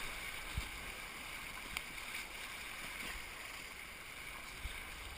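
Steady rush of flowing creek water around a canoe, with a few soft knocks.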